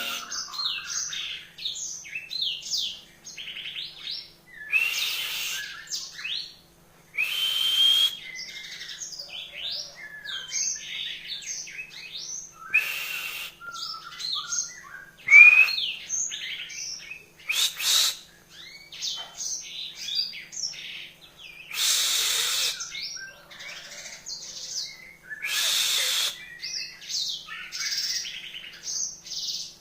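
Yellow-fronted canary (Mozambique serin) singing a fast, continuous run of high chirps, trills and short rising notes. Several brief harsh bursts are scattered through the song, and a faint low hum sits underneath.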